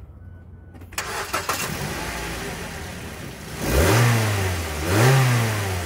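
2012 Mazda 3 engine starting about a second in and running, then revved twice in quick blips.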